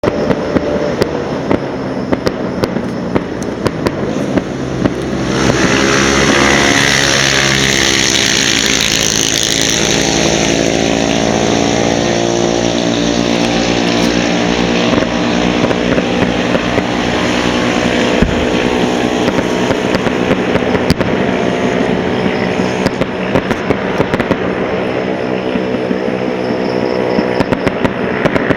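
Fireworks being set off: sharp crackles throughout, and from about five seconds in a loud spraying hiss that slowly fades, over a continuous engine-like drone.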